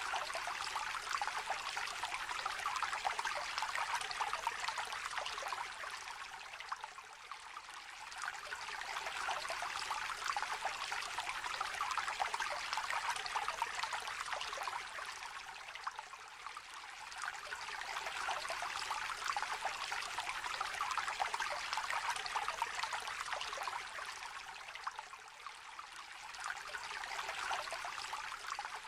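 A small stream trickling and babbling, a steady rush of water that swells and eases every few seconds.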